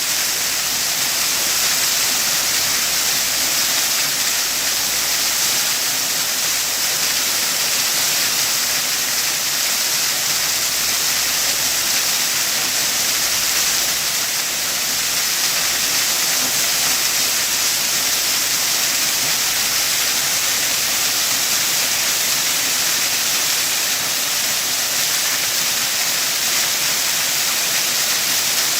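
Waterfall: water falling steadily, an even hiss that does not change.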